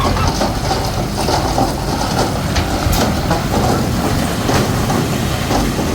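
Komatsu D21P crawler bulldozer working: its diesel engine rumbles steadily while its steel tracks clank irregularly.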